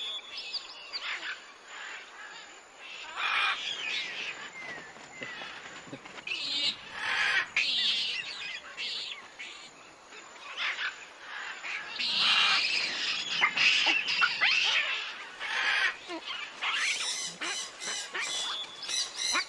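Birds chirping and calling: a jumble of short, irregular chirps and quick gliding notes.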